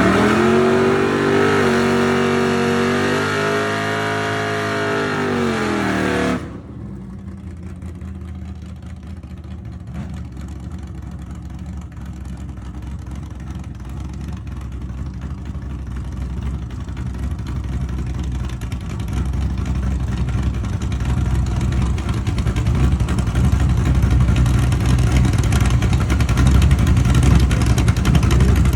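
Car engine revving, its pitch rising and falling, then a sudden cut about six seconds in to a low, steady engine rumble that slowly grows louder.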